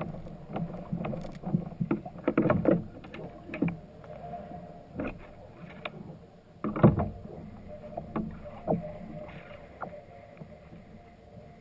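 Irregular knocks and rattles of gear and hands against a kayak's hull while fishing, the loudest about two and a half seconds in and again about seven seconds in.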